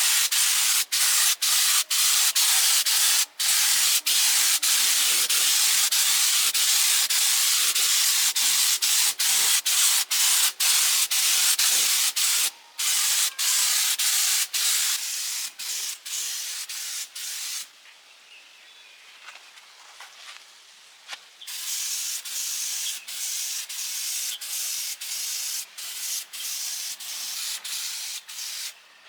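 Spray gun painting the truck chassis: a steady, loud hiss of compressed air and paint mist, broken by many brief gaps, and quieter for a few seconds past the middle.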